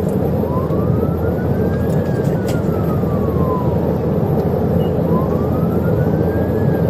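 Police siren in a slow wail, rising and falling twice, over loud steady road and engine noise from a patrol car running at highway pursuit speed.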